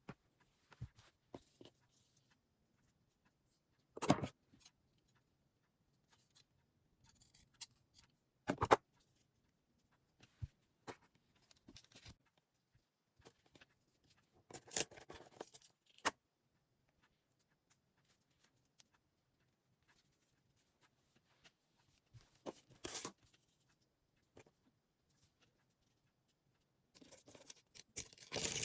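Scattered handling noises of work on fabric: short rustles and scrapes, small clicks, and a few sharp knocks, with quiet gaps between.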